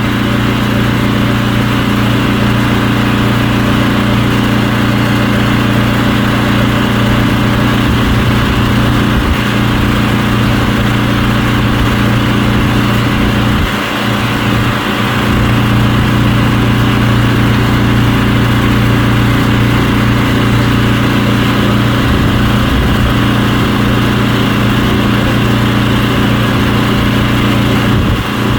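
An engine running steadily throughout, with a brief dip about fourteen seconds in, most likely the motor of the drain-cleaning equipment.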